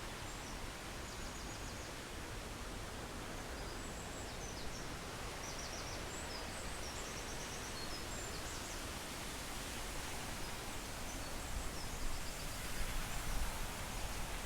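Steady rush of a waterfall, with small songbirds chirping and trilling over it through the first part. A few soft low thumps near the end.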